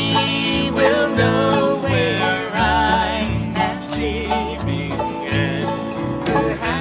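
Live acoustic bluegrass picking on plucked string instruments, a steady run of quick notes under a bending melody line.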